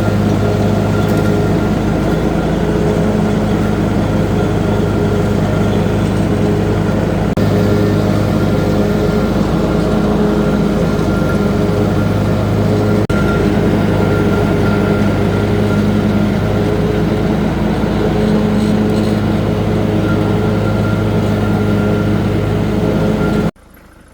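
Engine of a Bad Boy riding lawn mower running steadily under mowing load, a constant hum with a thin high whine above it. The sound breaks off briefly twice and stops abruptly near the end.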